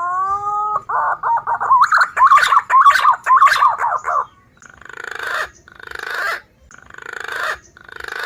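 Recorded green pigeon (punai) calls used as a lure: a rising whistle, then about three seconds of warbling, fluting whistles, followed by four harsh, raspy phrases.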